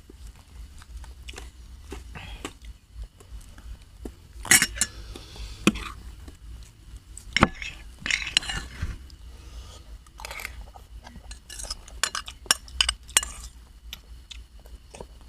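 Cutlery clinking and scraping against a dish while eating: irregular sharp clicks and short scrapes, a couple of louder ones about four and a half and seven and a half seconds in.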